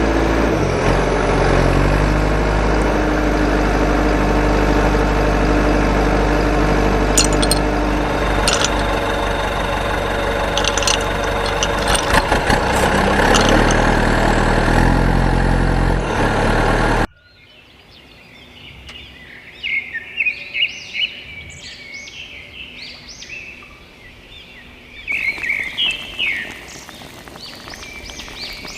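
An engine running steadily, with a low hum and a few light clicks, cuts off abruptly about 17 seconds in. After the cut, birds chirp in short high calls over quiet background noise.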